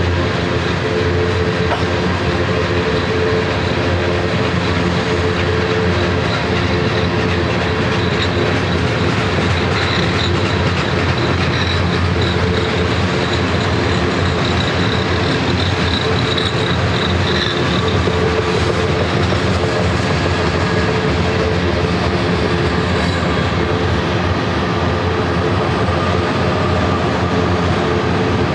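Mixed manifest freight train cars (covered hoppers, tank cars, flatcars, autoracks) rolling steadily past, with the continuous noise of steel wheels on rail. A faint high-pitched wheel squeal comes in through the middle stretch.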